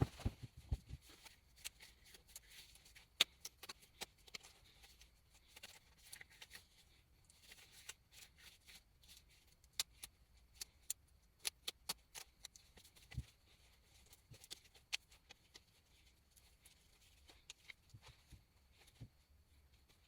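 Scattered, irregular light clicks and ticks over faint hiss, with a few dull low thumps near the start and about 13 seconds in. No motor is running.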